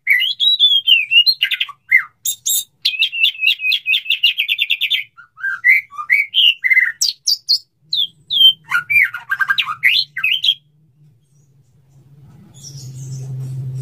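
Male white-rumped shama singing its courtship song: varied whistled phrases and a fast run of repeated chattering notes. The song stops about ten seconds in, and a low steady hum grows louder near the end.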